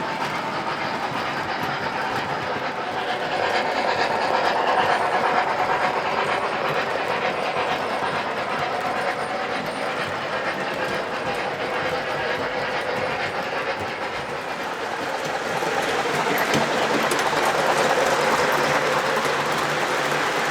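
Model train running on its track: a steady rumble and clatter of wheels on rail. It swells twice as the train comes close, about four seconds in and again near the end.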